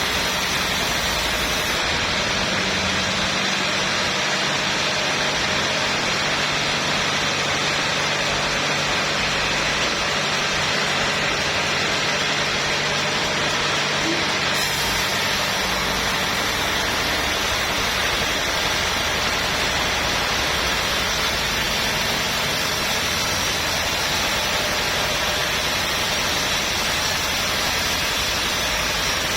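Sawmill machinery running steadily, an unbroken mechanical noise with a low engine hum underneath for the first half.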